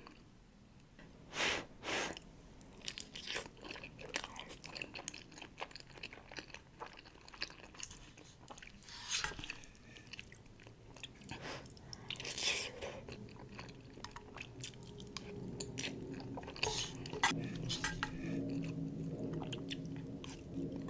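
Close-miked chewing and biting of Buldak ramen noodles, with many short, sharp mouth clicks. A low steady hum joins in for the last few seconds.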